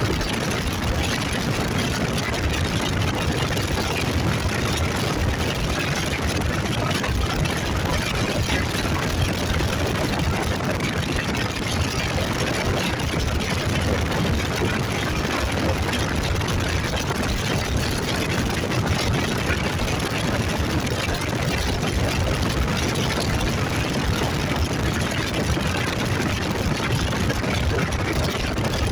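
Motorcycle engine running steadily, mixed with an even rush of noise, with no change in level throughout.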